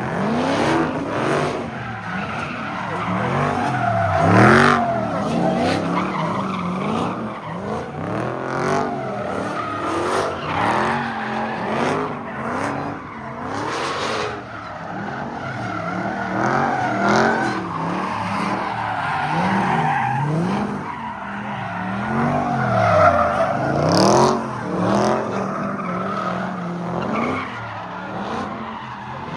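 A car spinning in a pit: its engine revs up and drops back over and over while the tyres squeal and skid on the pavement.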